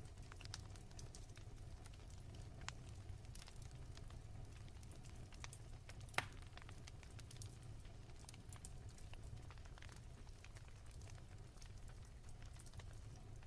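Wood fire crackling softly in a fireplace: scattered small crackles over a low steady rumble, with one sharper pop about six seconds in.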